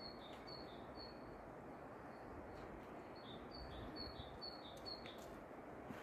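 Small bird chirping: short high chirps, a few in the first second and a quicker run of about five near the end, over a steady faint rushing background.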